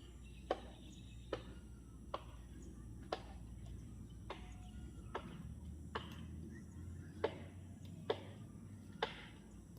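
Sharp, short clicks repeating about once a second, about ten in all, over a faint steady hum.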